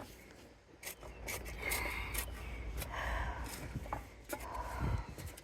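Hands rubbing and scraping in potting soil and plant matter, with several light clicks along the way.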